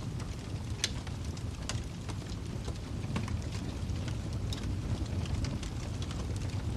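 Wood fire crackling in a fireplace: a steady low rumble of flames with scattered small pops and snaps, one sharper pop about a second in.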